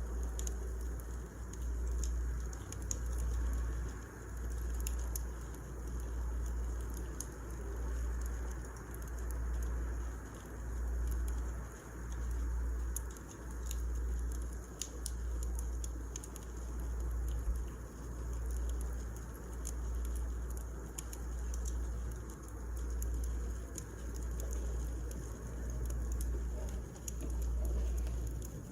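Wood fire crackling, with scattered sharp pops and snaps over a low rumble that swells and fades about every second and a half.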